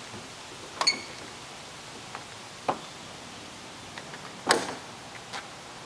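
A few separate knocks and clunks from a riding lawn tractor's hood being worked loose and lifted off. The first, about a second in, rings briefly; the loudest and longest clatter comes a little past the middle.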